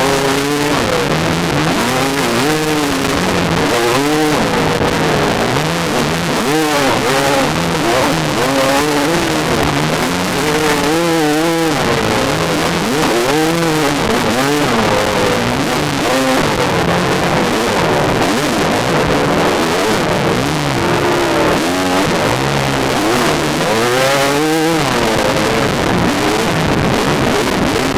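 Yamaha dirt bike engine revving up and falling back again and again as the throttle is worked along a trail, over a steady rushing noise.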